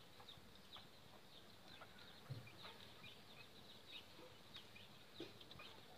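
Near-silent room tone with faint, scattered short chirps from birds in the background. There is a soft low thump about two seconds in.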